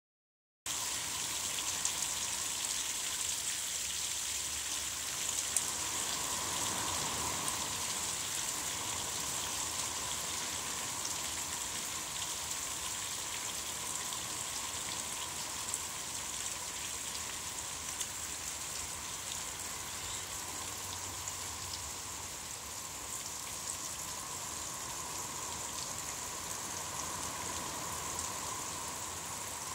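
Steady rain falling on a pool and garden, with scattered sharper drop hits.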